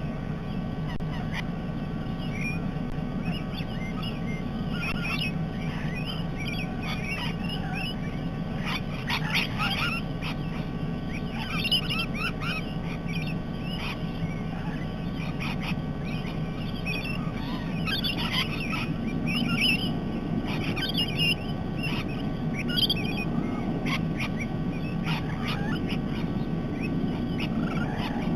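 Many parrots calling, a busy mix of short chirps and squawks that come thick and fast, over a steady low rumble.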